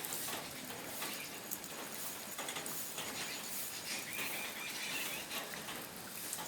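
Steady rain falling, a continuous patter with many small drips ticking through it.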